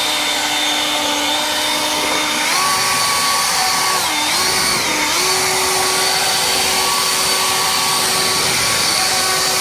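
EGO LB5302 battery-powered leaf blower running at full speed, a steady fan whine. Its pitch steps up about two and a half seconds in, dips briefly twice a little later, then holds high.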